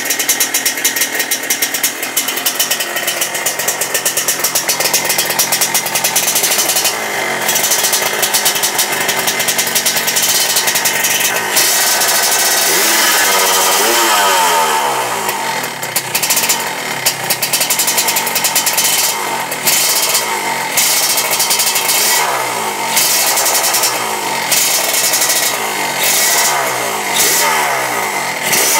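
Yamaha RX-King two-stroke single-cylinder engine with an AHM Ninja-style aftermarket exhaust, revved over and over. Throttle blips rise and fall in pitch, with one long high rev held a little before the middle that then drops away.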